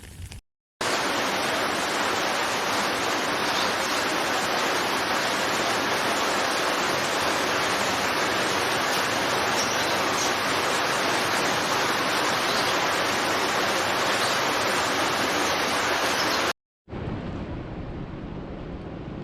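Heavy rain falling as a dense, steady hiss. It cuts in after a short break less than a second in and stops abruptly near the end, where a quieter, duller rain recording takes over.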